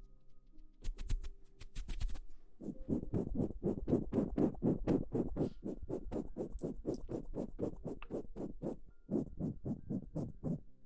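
Rapid, even tapping close to the microphone, about five soft thudding strikes a second. It starts about two and a half seconds in, pauses briefly near the ninth second, then resumes.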